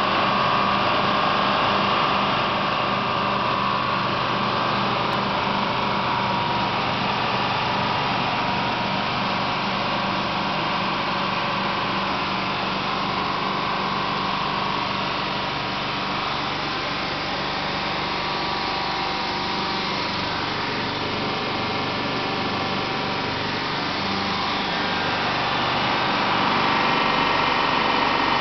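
Compressor running steadily with an engine-like drone and a faint, even pulsing of a few beats a second.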